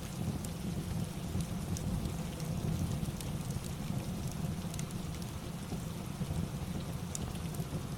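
Steady rain ambience with a deep, even rumble underneath, mixed with scattered sharp crackles of a wood fireplace.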